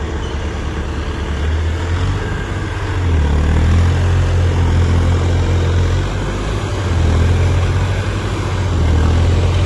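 Tractor diesel engine running hard, its deep hum swelling and easing three or four times.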